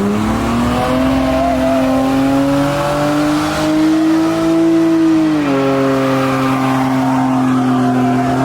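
Car engine held at high revs during a burnout. The pitch climbs steadily for about five seconds, drops a step about five and a half seconds in, then holds steady.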